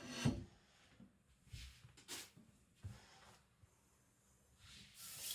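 A few short knocks and handling sounds, the loudest right at the start, as a whetstone is set up. Then a water tap starts running near the end.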